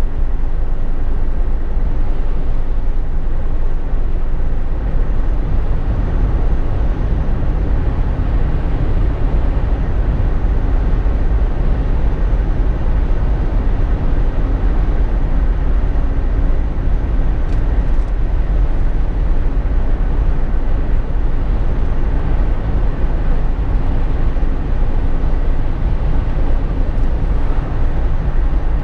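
Jeep Wrangler JK cabin noise while driving: a steady low rumble of engine, tyres and wind.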